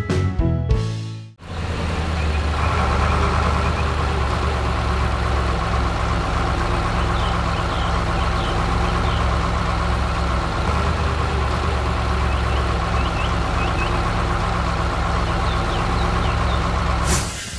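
Heavy construction-vehicle engine running steadily, a deep rumble that starts after a short burst of music cuts off.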